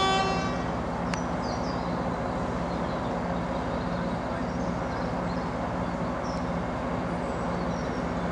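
Heritage train running with a steady low engine hum and rumble; a single pitched signal note from the train cuts off about half a second in.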